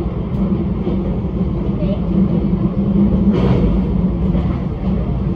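Interior running noise of a Metro X'Trapolis electric train travelling at speed: a steady rumble from the wheels and running gear with a constant low hum, and a brief rush of brighter noise about three seconds in.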